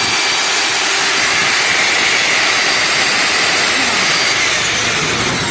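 Old National vacuum cleaner motor running at full speed on freshly replaced bearings: a steady high whine over a rushing of air, running smoothly. Its pitch begins to fall near the end as it winds down.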